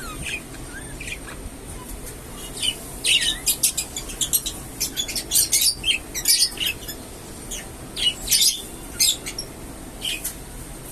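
A flock of red-eyed budgerigars chirping and chattering in quick, high, sharp calls. The calls are sparse at first and become a dense run of chatter from about a quarter of the way in, thinning out again near the end.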